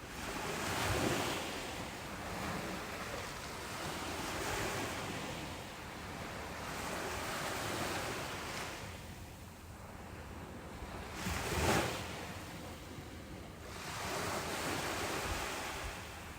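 Ocean waves breaking on a beach, a wash of surf that swells and recedes every three to four seconds. The loudest, sharpest crash comes about two-thirds of the way through.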